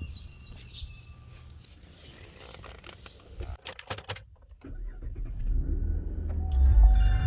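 A few clicks and knocks, then a car engine starts about two-thirds of the way in and runs with a low rumble that grows louder.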